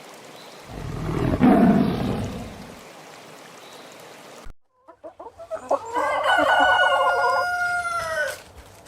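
Rooster crowing once, a long cock-a-doodle-doo held level and dropping in pitch at the end, starting about six seconds in. It is preceded by a few short clucks, and in the first seconds by a separate rough, noisy animal sound.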